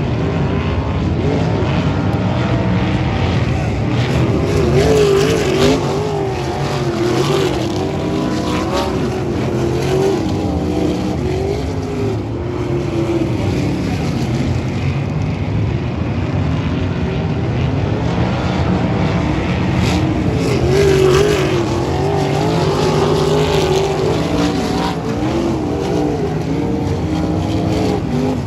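A pack of sprint car engines racing together, the engine notes overlapping and rising and falling in pitch as the cars circle the track, a little louder about five seconds in and again past twenty seconds.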